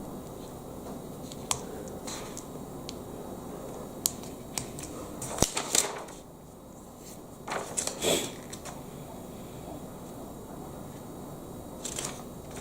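Plastic Lego Technic pieces being handled and fitted together: scattered sharp clicks and short rattles, busiest a little before the middle and again just after it.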